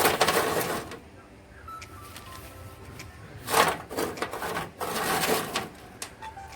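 Small stones being poured and spread over the soil of a potted snake plant, clattering in three short bursts: one at the start, then about three and a half and five seconds in.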